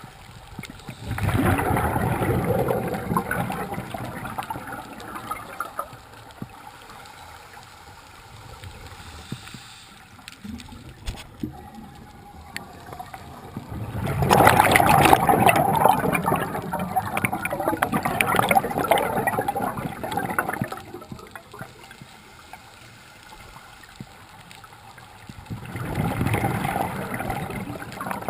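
Scuba diver breathing through a regulator underwater: three long bursts of rushing, gurgling exhaust bubbles, each several seconds long, with quieter stretches between breaths.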